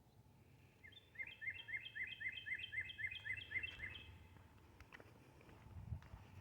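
A songbird singing one quick series of about a dozen evenly repeated down-slurred phrases lasting about three seconds, over faint outdoor background noise.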